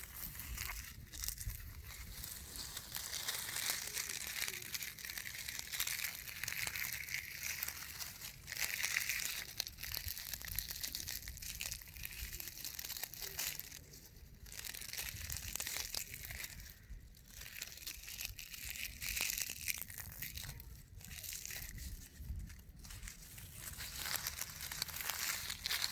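Dry grass rustling and crackling close to the microphone, in long continuous stretches broken by brief pauses.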